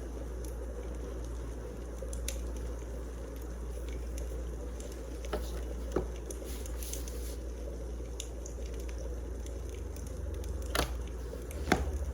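Wood fire burning in a fireplace: a steady low rumble with scattered sharp crackles and pops, the loudest near the end.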